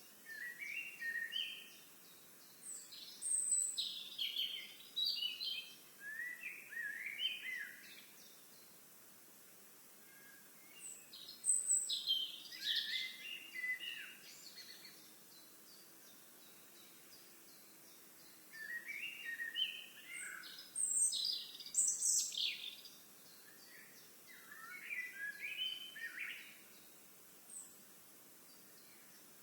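Songbirds singing in bursts of quick, varied chirps and warbles a few seconds long, with short pauses between the bursts.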